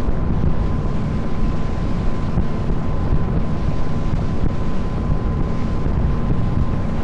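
Small tour boat's engine running steadily under way, with a faint steady whine and wind buffeting the microphone.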